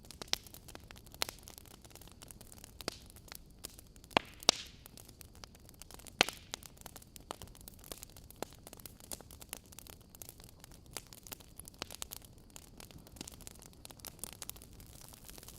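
Wood fire crackling: a steady low hiss with scattered sharp pops and snaps, the loudest a few seconds in.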